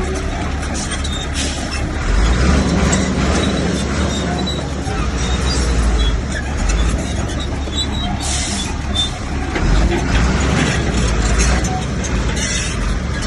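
Heavy diesel earthmoving machinery running steadily, its engine sound swelling and easing, with two brief hissing bursts: one about two-thirds of the way in and one near the end.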